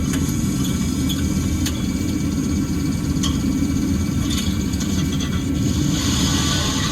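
A vehicle engine running steadily, a low, even rumble with no change in speed.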